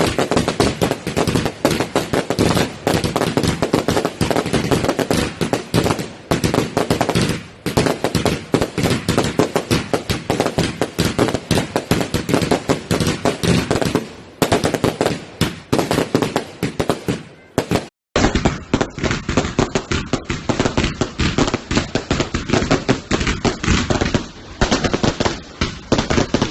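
Garden fireworks going off in a rapid, continuous volley of sharp bangs and crackles, like a firework barrage firing many shots a second. The bangs stop abruptly about eighteen seconds in, and after a brief gap another volley takes over.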